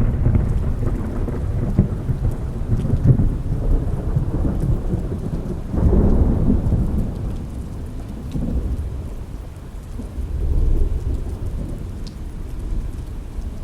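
Thunder rumbling on from a clap just before, with a fresh swell of rumble about six seconds in and a smaller one later, over heavy rain pattering on a window.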